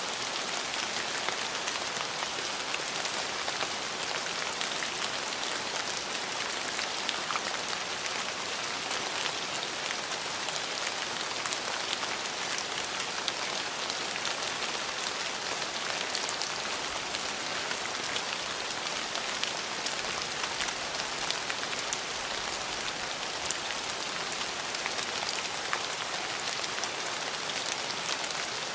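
Steady rain falling and pattering on surfaces, an even hiss sprinkled with fine ticks of individual drops.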